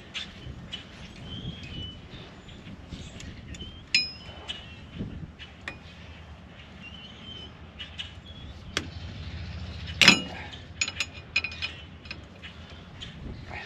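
Scattered metallic clinks and knocks of hand tools on metal, some ringing briefly, with one loud clank about ten seconds in.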